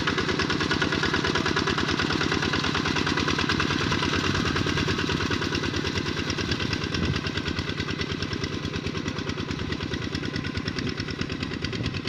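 Tractor engine running steadily with a fast, even beat of firing strokes, dropping slightly in level about halfway through.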